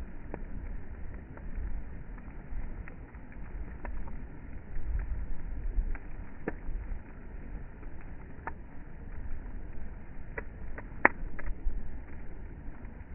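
Bonfire crackling, with scattered sharp pops, the loudest of them near the end, over a steady low rumble.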